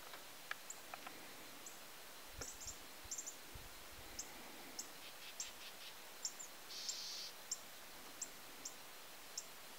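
Faint, short, high-pitched bird chirps at irregular intervals, with a brief hiss about seven seconds in and a few soft low thumps between about two and four seconds in.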